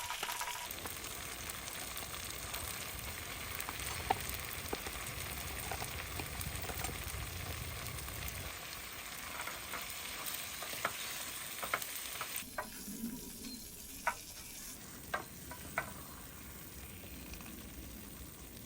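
Food sizzling in a frying pan, a steady hiss that drops quieter about two-thirds of the way through, with a few sharp clicks in the second half.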